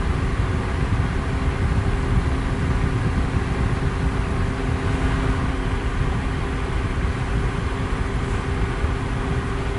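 Electric fan running steadily: a constant whooshing of moving air weighted toward the low end, with a faint steady motor hum.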